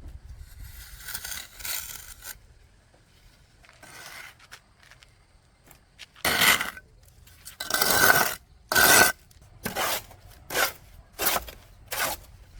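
Scraping in short strokes: a faint stretch near the start, then seven short, louder strokes in the second half.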